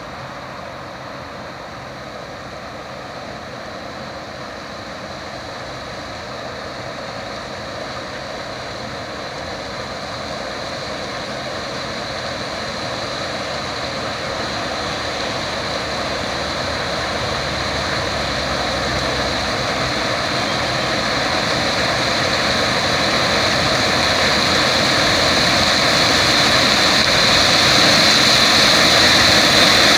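Combine harvester harvesting sunflowers, a steady machine noise that grows louder throughout, with a high whine coming up near the end.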